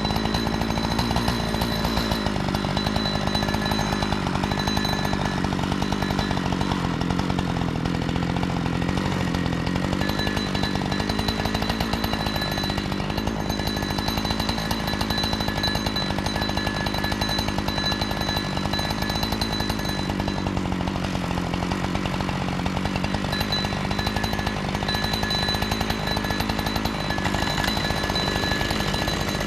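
Chainsaw running flat out under load, held in a long steady cut through a log as in chainsaw milling; its engine note sags slightly and wavers as the chain bites.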